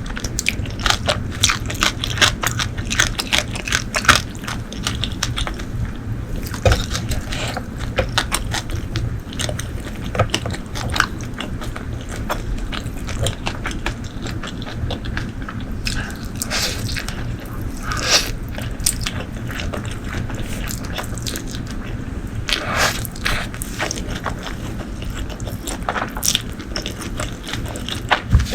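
Close-miked eating sounds: a person biting and chewing food, with many sharp clicks. The clicks come thick and fast for the first few seconds, then more spaced out.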